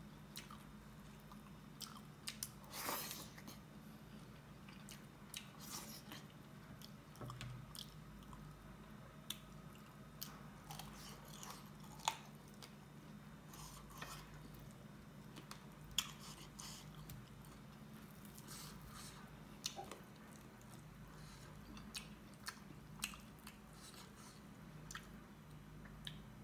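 A person chewing and biting while eating chicken curry and dhido by hand, with scattered short clicks and soft mouth and finger sounds over a faint steady low hum.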